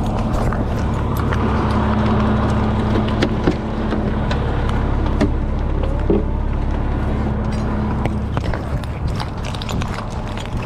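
Fire engine's diesel engine running steadily, with scattered clicks and knocks over it. The steady engine note drops away about eight seconds in.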